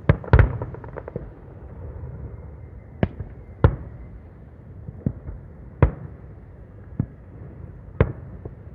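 Aerial fireworks shells bursting: about eight sharp bangs at irregular intervals, two close together at the start and the others a second or so apart, over a steady low rumble.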